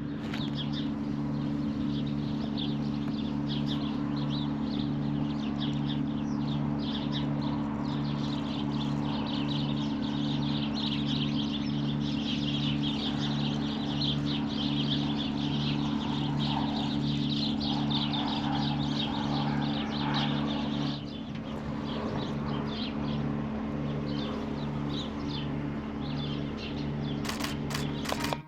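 Many small birds chirping in a dense, continuous chorus, over a steady low mechanical hum that throbs about once a second. Part of the hum drops away about three-quarters of the way through.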